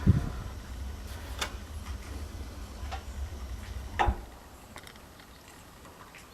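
Gas water heater burner running with a low, steady rumble, with a knock at the start; a sharp click about four seconds in, after which the rumble stops.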